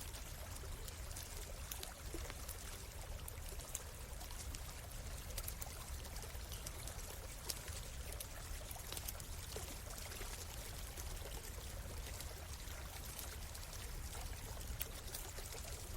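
Forest stream flowing and trickling steadily over a low rumble, with scattered small crackles from a campfire.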